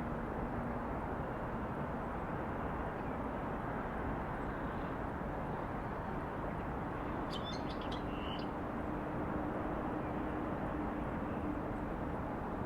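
Steady hum of distant city traffic, with a faint low drone through the second half. A short run of bird chirps comes about seven seconds in.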